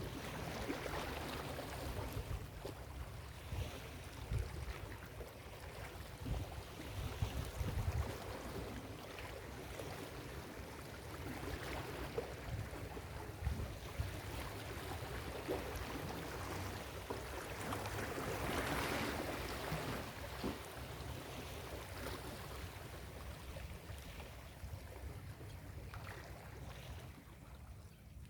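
Ocean surf breaking and washing up a beach, swelling louder about two-thirds of the way through, with a low fluttering rumble underneath.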